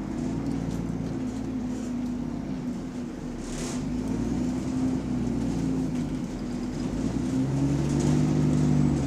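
Bus engine running with an exhaust leak, heard on board. Its note rises a little near the end, and a short hiss comes about three and a half seconds in.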